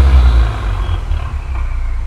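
Ford Mustang EcoBoost's turbocharged four-cylinder through an aftermarket stainless steel exhaust, its revs falling away and settling to a low, steady idle about half a second in.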